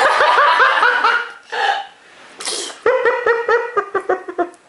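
A young child laughing in two runs of quick, high-pitched laughs, the second starting about three seconds in, with a short noisy burst of breath between them.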